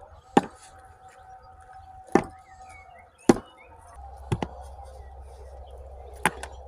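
About six sharp knocks of hard objects striking, irregularly spaced, two of them close together a little past the middle. A faint steady hum runs beneath them.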